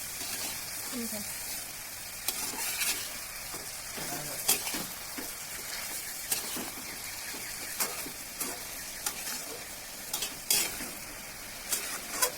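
Food frying in hot mustard oil in a pan, with a steady sizzle. A spatula stirs it, scraping and clinking against the pan about a dozen times at irregular intervals.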